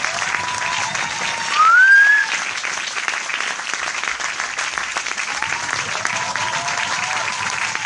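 Large crowd applauding steadily, a dense wash of many hands clapping. High held calls from the crowd sound over it early and again near the end, and one loud rising call comes about a second and a half in.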